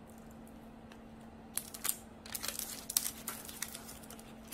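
Metal kitchen tongs pulling a baked soft pretzel apart on a parchment-lined baking sheet: irregular crinkles of the paper and clicks of the tongs, starting about a second and a half in.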